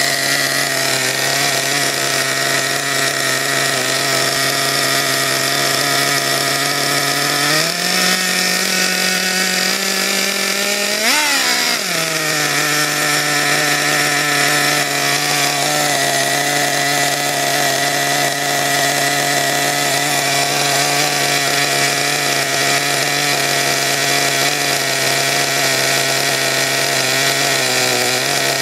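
Redcat Earthquake RC truck's two-stroke nitro engine running at a steady high buzz. It picks up a little about eight seconds in, gives one sharp brief rev near eleven seconds, then drops back to its steady idle.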